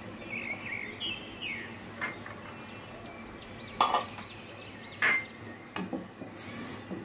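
Small birds chirping again and again in the background, with two sharp knocks about a second apart around the middle. Near the end, a wooden spoon stirs in an aluminium pot of milk.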